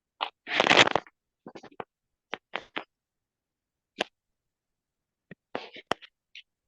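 Intermittent short scratches and taps of drawing with a charcoal pencil on paper, with one louder rustle about half a second in.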